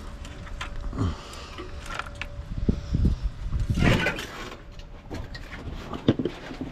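Hand teardown of scrap parts: scattered knocks and clunks as pieces are handled and worked at, with a louder cluster of clunking and scraping about three to four seconds in. A faint steady hum sits under the first half.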